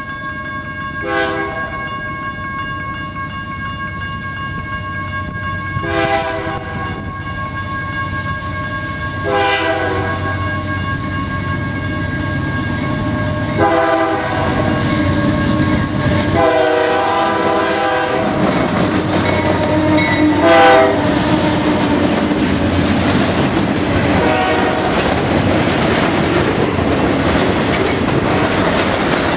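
Canadian National freight train approaching with its locomotive horn sounding about six times, short and long blasts, over a steadily growing rumble. In the second half the train is passing, its cars' wheels rolling over the rail joints with a clickety-clack.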